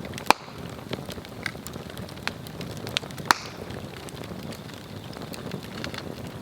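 Swedish torch, an upright split log, burning and crackling, with irregular sharp pops of the wood. The two loudest pops come about a third of a second in and just after three seconds.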